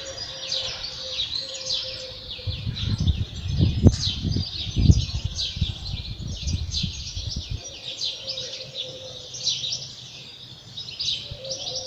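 A flock of small birds chirping and twittering without pause, many short, quick notes overlapping in a busy chorus. A few low thumps sound about three to five seconds in.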